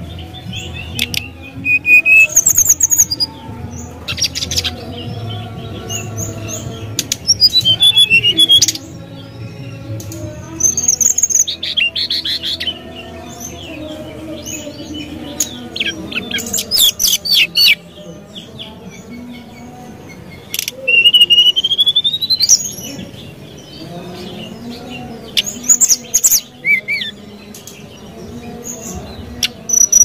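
Brown-chested jungle flycatcher singing: loud phrases of high, fast chirps and trills, with whistled slides both up and down in pitch, coming every few seconds.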